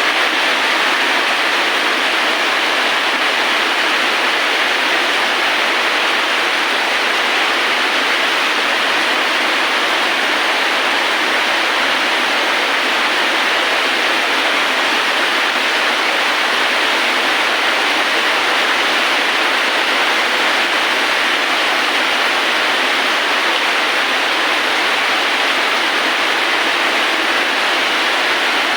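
Steady heavy rain: an even, unbroken hiss that does not change in level.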